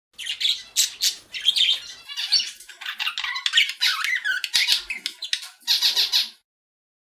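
A bird squawking in a quick run of harsh, scratchy calls that stops about six seconds in.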